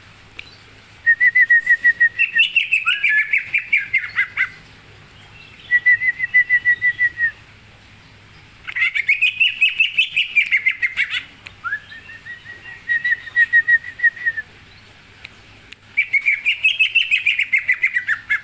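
A songbird singing in repeated bouts: runs of rapid, even notes on one pitch, about eight a second, some leading into a busier, falling phrase. Five bouts come with short pauses between them.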